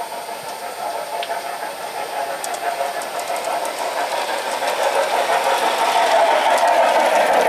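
G scale model train running on garden track, its motor and gearing giving a steady whine that grows louder as it approaches, with a few light clicks from the wheels on the rails.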